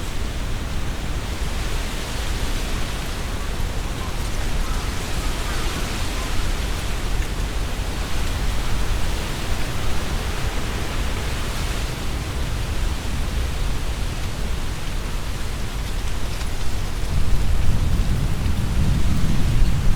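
Strong wind blowing through trees, leaves rustling continuously, with a low wind rumble on the microphone that grows stronger near the end.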